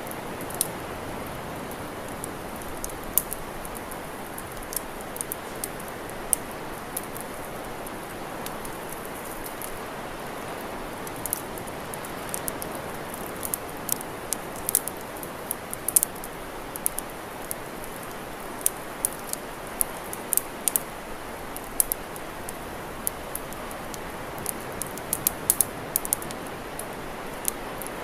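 Wood campfire crackling, with frequent irregular sharp pops and snaps over a steady rushing hiss.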